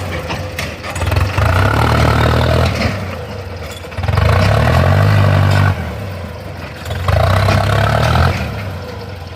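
Tractor diesel engine revved up three times in a row, each surge lasting about a second and a half, dropping back to a lower running note in between.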